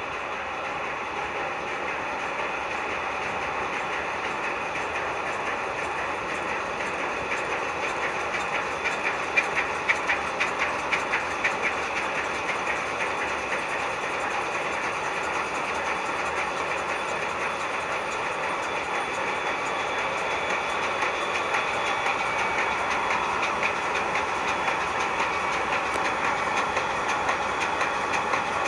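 Ship's two-stroke diesel engine running steadily with an even mechanical din and a regular clatter, most prominent about a third of the way in.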